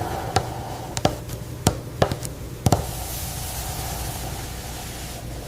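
A run of about six sharp knocks or taps in the first half, over a steady hum and hiss.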